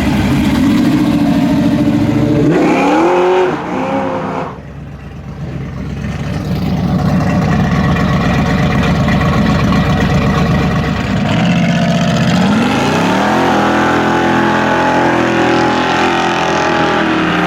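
Car engine revving: a short rev about three seconds in falls away into a rough low rumble, then the revs climb again around twelve seconds in and are held high and steady.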